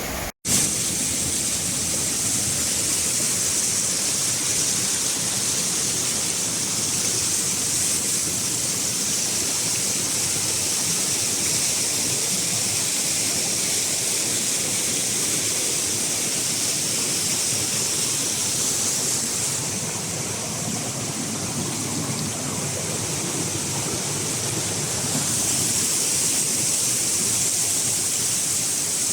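Waterfall in a river gorge: a steady, loud rush of falling water that eases slightly about two-thirds of the way through.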